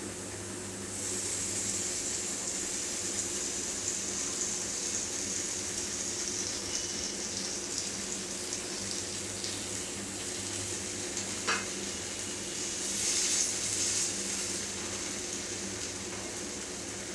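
Gram-flour omelette sizzling in butter in a nonstick pan. It is a steady hiss that starts about a second in and swells briefly about thirteen seconds in, with a single sharp tap about eleven and a half seconds in.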